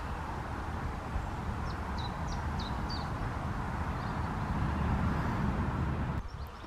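Outdoor ambience: a steady low rumble and hiss, with a small bird giving four short, high chirps about two seconds in.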